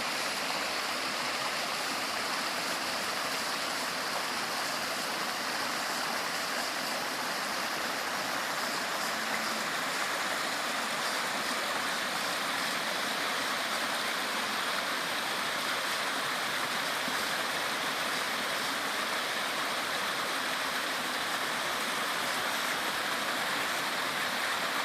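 Small waterfall splashing down into a stream, a steady even rush of falling water.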